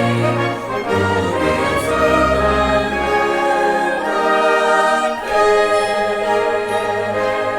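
Symphony orchestra playing classical holiday music, sustained chords across the strings. The bass drops away about four seconds in and comes back about a second later.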